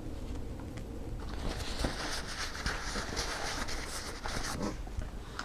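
Rustling and crinkling of packaging being handled, dense with small clicks. It starts about a second in and dies away near the end.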